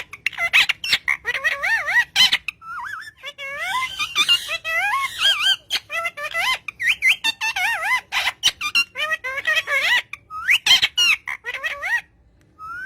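Green parrot chattering in rapid, wavering whistled warbles and squeaks, with a short pause near the end.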